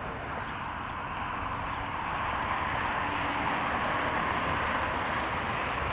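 Jet airliner engines, a steady rushing noise that grows gradually louder as the aircraft nears.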